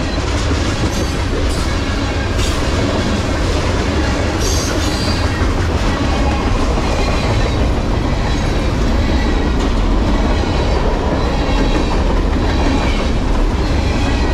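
Freight train cars rolling past close by: a loud, steady rumble and clatter of steel wheels on the rails, with faint high wheel squeals now and then.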